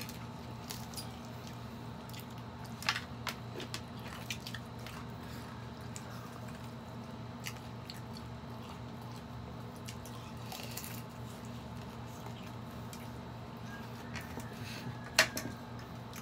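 Fried chicken being chewed and bitten, with scattered short clicks of chopsticks and utensils against plates, the sharpest about a second before the end. A steady low hum runs underneath.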